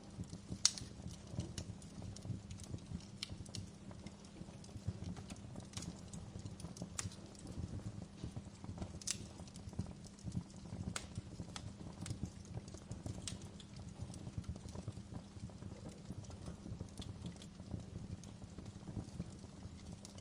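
Wood fire crackling in a fireplace: irregular sharp pops and snaps, a few every second, over a steady low rumble of burning logs.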